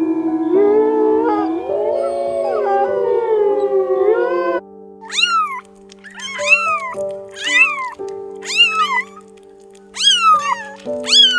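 Background music with sliding, wavering tones, then from about halfway a series of six short animal calls, each rising and falling in pitch, about one a second over the music.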